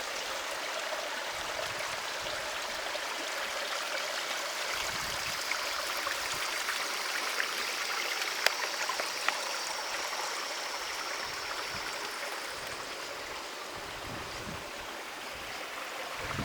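Steady rush of flowing water, like a stream or small waterfall, with a few faint ticks.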